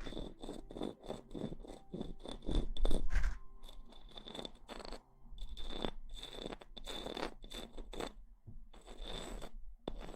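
Close-up ASMR rustling and scratching sounds on the microphone, in quick irregular strokes with short pauses.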